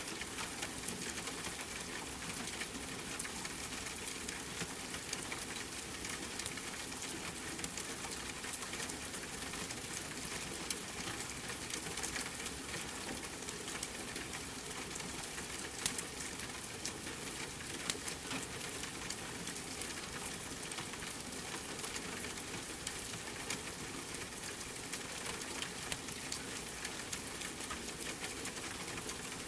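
Steady rain mixed with a crackling wood fire: an even hiss broken by many small, sharp pops and ticks.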